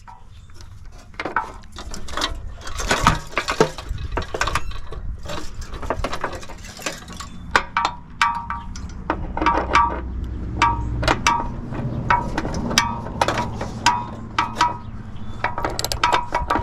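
Hand tools clinking and knocking on the metal parts of an air-conditioner condenser being dismantled: a stream of irregular metallic clicks, many with a brief ringing tone.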